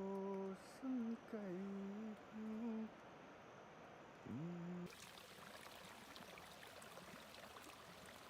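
A person singing a slow tune in long held notes, stopping about three seconds in, with one more short gliding note near five seconds. The sound then switches abruptly to the steady rush of running water.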